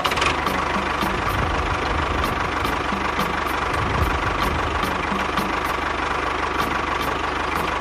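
Small engine idling steadily, with a regular ticking about four times a second.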